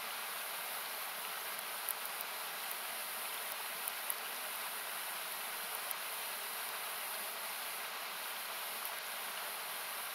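Steady rushing of a nearby river, which sounds like even hiss, with a few sharp crackles from a wood campfire around two, four and six seconds in.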